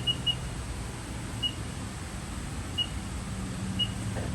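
Haas VF-1 CNC machining center humming steadily while being shifted into low gear for a 150 RPM spindle start, with short high beeps from its control panel: three in quick succession at the start, then three single beeps about a second apart.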